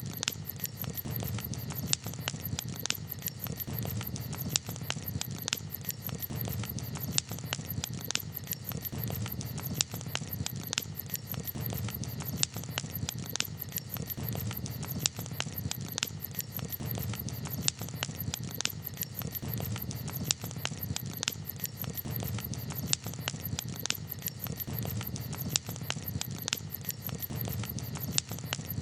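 Campfire crackling: irregular sharp pops and snaps over a steady low rush of noise.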